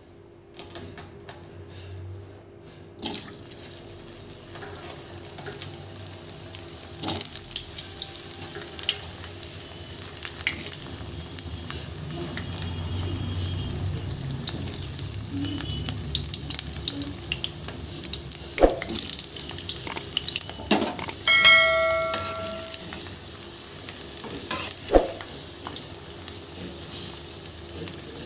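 Potato chunks sizzling as they shallow-fry in hot mustard oil in a kadai. The sizzle starts a few seconds in and grows louder about seven seconds in. A few sharp knocks and a short ringing clink come from a metal spatula against the pan.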